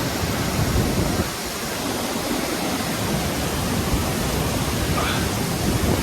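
A tall waterfall pouring close by: a loud, steady rush of falling water.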